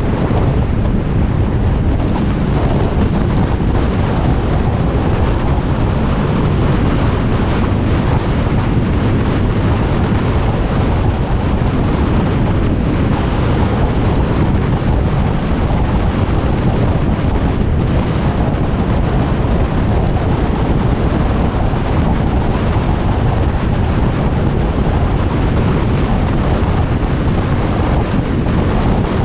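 Steady, loud wind rushing over the microphone of a motorcycle at road speed, with the Harley-Davidson Iron 1200's air-cooled V-twin running underneath.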